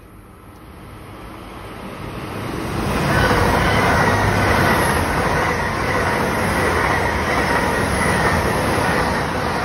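Passenger train approaching and running through the station at speed. Its noise grows over about the first three seconds, then stays loud and steady as the coaches pass close by, with a faint high whine over the rush of wheels on rail.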